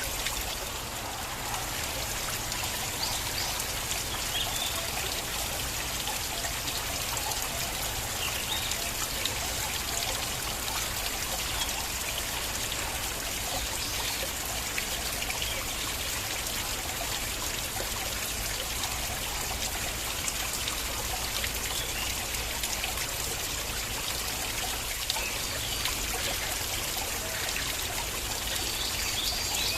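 Stream water flowing and trickling steadily, with small splashes scattered through it.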